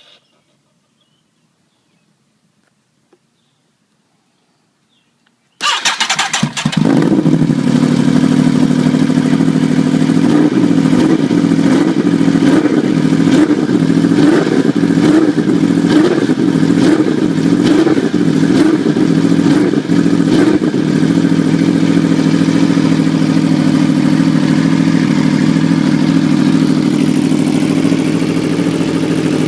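Aprilia RSV4 V4 engine with an Austin Racing GP2R full exhaust system starting after a few seconds of near silence, then running loudly at idle. For about ten seconds the idle wavers up and down, then it settles into a steady run.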